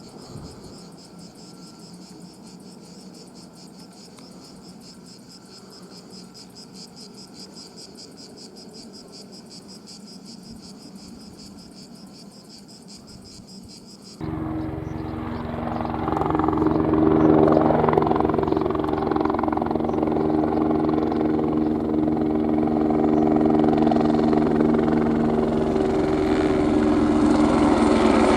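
Crickets chirping in a rapid, even rhythm. About halfway through, the sound switches suddenly to a loud Airbus AS350 helicopter, its turbine and rotors running with steady tones, which grows louder over the next few seconds and then holds.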